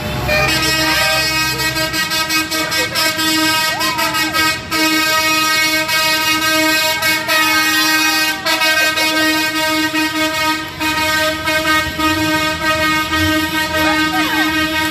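A vehicle horn held sounding steadily for most of the stretch, with a few brief breaks, over vehicle noise.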